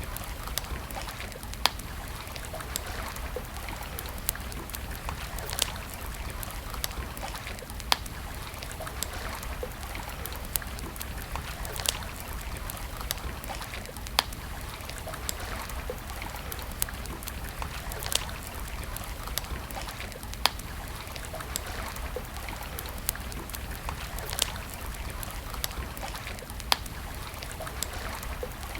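Campfire crackling: irregular sharp pops and snaps, a louder one every two or three seconds with smaller ticks between, over a steady hiss and low rumble.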